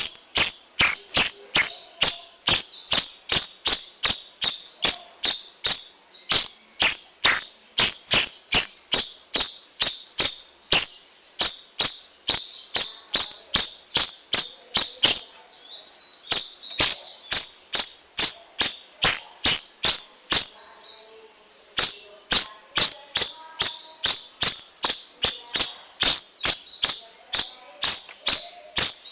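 Cucak rawis singing a rapid run of sharp, high chirps, about three a second, broken by two brief pauses about half-way and two-thirds of the way through.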